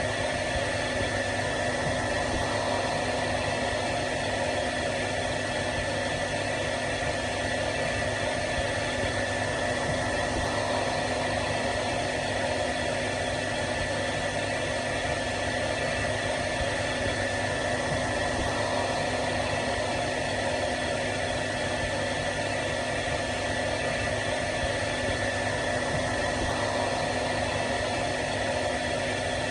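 Hair dryer running steadily, an even rushing of air with a constant motor hum and whine.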